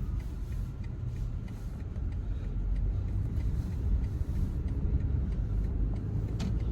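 Car being driven, heard from inside the cabin: a steady low rumble of engine and road noise, with a single click near the end.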